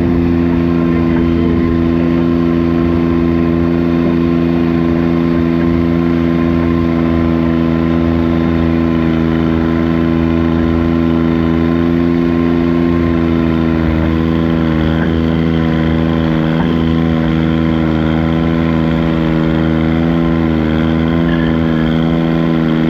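Diesel garden tractor engine running hard at a steady, held pitch, as in a pull down the track; the pitch wavers slightly over the last several seconds.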